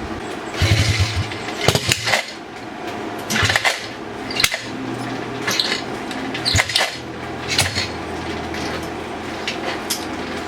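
Apollo 110cc pit bike engine being worked with the kickstart, in short loud bursts about once a second, some with a brief low engine hum. A mechanical noise is in it that the owner doesn't like, coming from something under the engine cover.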